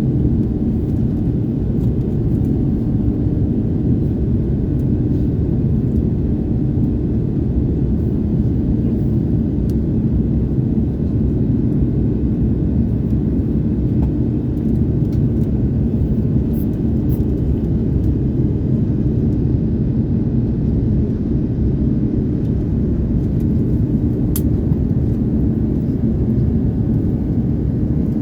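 Steady low rumble of Airbus A330neo cabin noise in flight, the airflow and Rolls-Royce Trent 7000 engines heard from a passenger seat, with a faint held hum in it.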